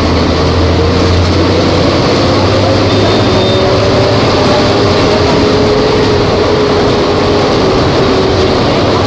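Volvo B270F bus's diesel engine running steadily and loud, its note climbing gently over the first few seconds, then easing off slightly.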